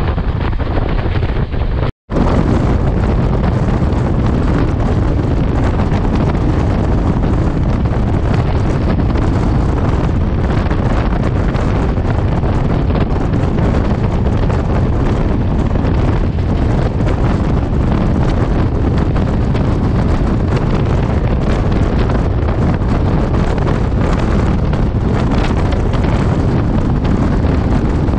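Steady loud rush of a train running at speed, with wind buffeting the microphone. The sound cuts out completely for a moment about two seconds in, then carries on unchanged.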